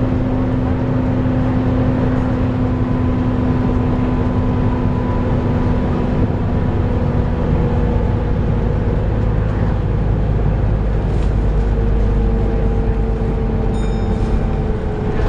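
A Volvo B7TL double-decker bus's engine and drivetrain running, heard from on board, with steady whines that slowly drift lower in pitch. There is a short high-pitched beep near the end.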